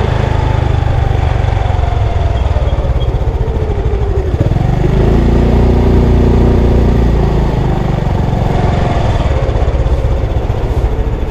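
Motorcycle engine running while riding, under heavy wind rumble on the microphone.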